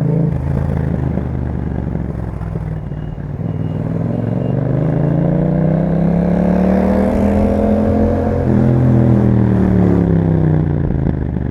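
2021 Yamaha MT-07's parallel-twin engine running through an Akrapovic exhaust while riding. The revs climb steadily for about five seconds, then fall away gradually as the throttle comes off.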